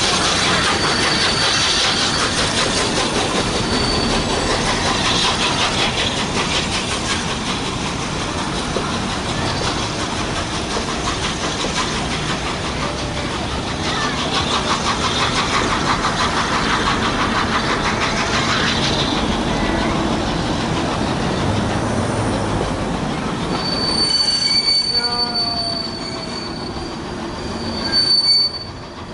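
A steam-hauled passenger train rolling past on the rails, its coach wheels rumbling and clattering. A thin, high wheel squeal comes and goes and is clearest near the end, as the rolling noise thins out.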